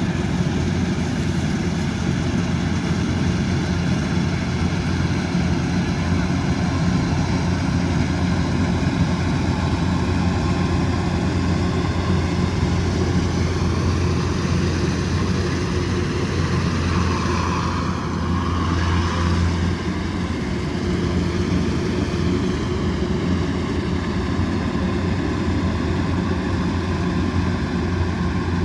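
Kubota DC108X combine harvester running steadily with a deep, continuous drone and a higher whine, the whine's pitch bending and briefly shifting about two-thirds of the way through.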